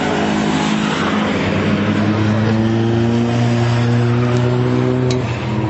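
A race car's engine running at high, steady revs, its pitch creeping up slightly about two seconds in and dipping briefly near the end.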